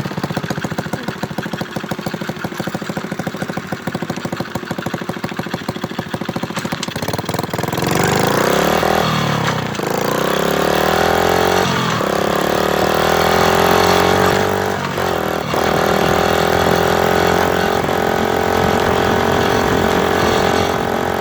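Motorcycle engine, just restarted after stalling, idling with a fast even firing beat; about eight seconds in it revs up louder and its pitch rises and falls several times as the bike is ridden off.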